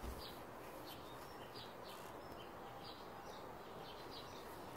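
Small birds chirping: many short, high chirps scattered throughout, over a steady low background noise.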